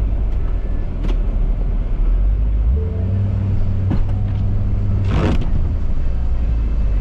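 2018 Ford F-350's 6.7 L Power Stroke V8 turbodiesel running with a steady low drone, settling into an even pitched note from about three seconds in until near six seconds. Three short knocks or scrapes come through over the engine.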